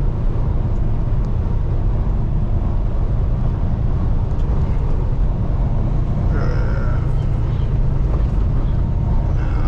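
Semi truck in motion heard from inside the cab: a steady low rumble of engine and road noise at cruising speed.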